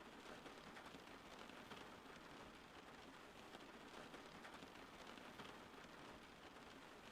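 Steady rain falling, faint and even, with scattered patter of individual drops.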